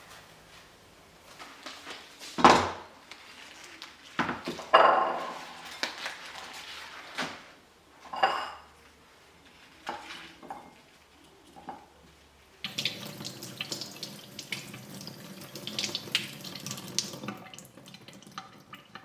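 Kitchen sink sounds: several knocks and clinks of dishes and utensils, then a tap running into the sink for about five seconds in the second half.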